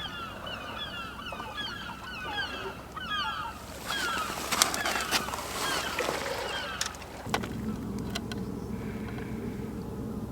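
A flock of birds calling in a fast, continuous run of short calls that dies away about seven seconds in, with a few sharp clicks around the middle. A low steady rumble takes over near the end.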